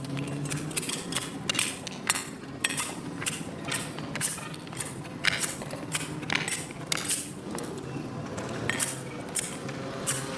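Repeated short scrapes and clinks of a metal hand tool working over wet pavement, irregular, about one to two strokes a second.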